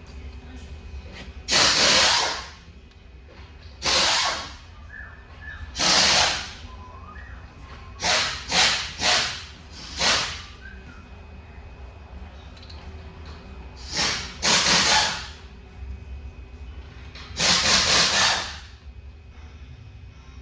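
A pneumatic shop tool running in about ten short bursts, some singly and some in quick runs of two or three, over a low steady hum.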